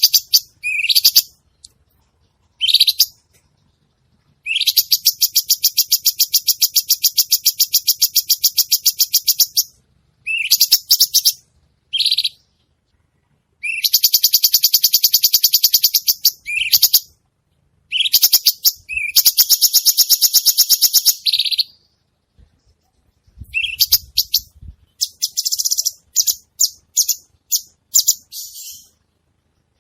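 Cucak cungkok singing in full, active song: long, rapid trills of fast-repeated high notes, each lasting a few seconds and opening with a quick upward sweep, broken by shorter chattering phrases and brief pauses.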